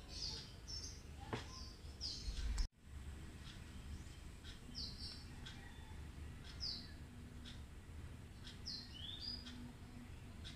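A small bird chirping repeatedly, short high notes every second or two, over a low steady rumble with a few faint clicks. The sound cuts out for an instant about two and a half seconds in.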